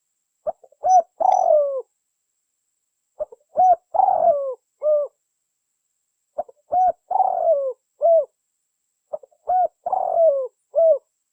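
Spotted dove (tekukur) cooing its song four times, about every three seconds; each phrase is a couple of short coos, a longer falling coo and a final short coo.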